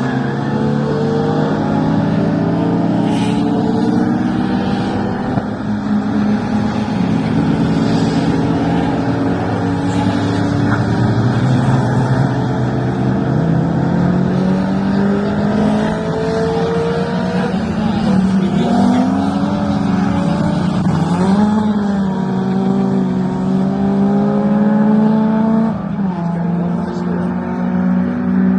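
Several classic racing car engines running at once on the circuit, their pitches rising and falling through gear changes as they accelerate and pass.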